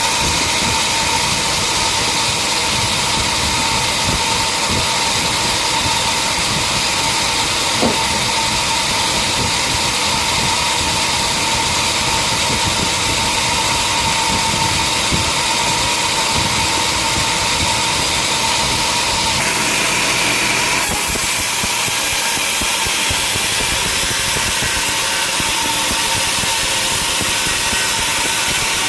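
Sawmill machinery running steadily, with a constant whine over the noise of the machine; the sound shifts about twenty seconds in.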